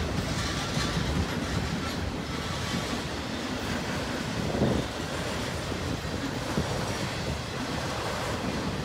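Double-stack intermodal train cars rolling past, a steady rumble of wheels on rail with scattered clicking over the rail joints. There is one louder knock about halfway through.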